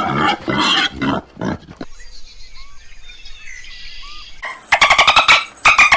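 Animal calls: a run of loud, rough calls for the first couple of seconds, a quieter stretch with faint short chirps, then two long calls made of rapid pulses that fall in pitch, the second running on past the end.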